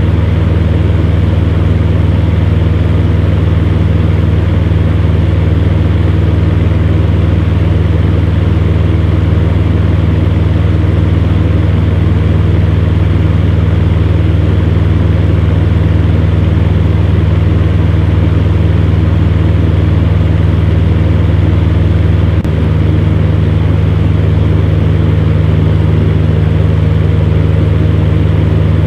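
Electric fan heater running steadily: a low motor hum under an even rush of blown air.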